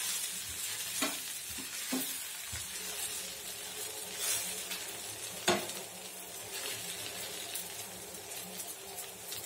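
Kari dosa sizzling on a hot tawa while a steel slotted spatula presses it down. A few sharp scrapes and taps of the spatula on the pan cut through, the loudest about five and a half seconds in.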